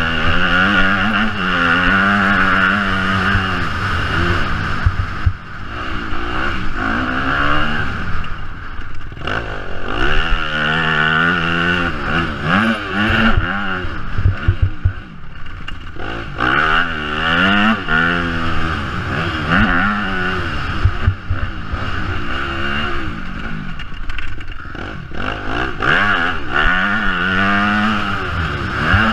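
Yamaha single-cylinder motocross bike's engine, ridden hard: the revs climb and drop again and again every second or two as the rider throttles on and off through the track's sections.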